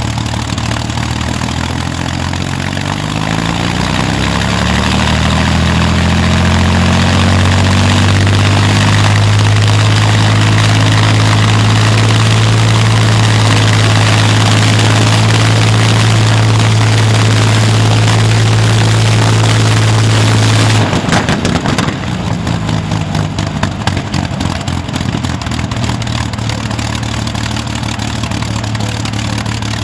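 Rolls-Royce Merlin V12 aero engine on a ground run, climbing from a low idle to higher revs over several seconds and holding there. About twenty seconds in it is throttled back abruptly, crackling as the revs drop, and settles to a lumpy idle.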